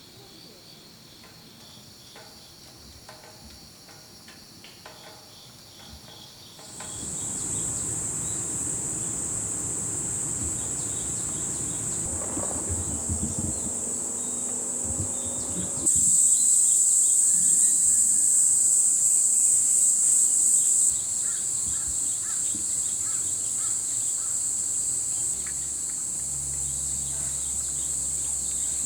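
Insects chirring in a steady, high-pitched chorus that comes in about seven seconds in and swells louder for a few seconds in the middle.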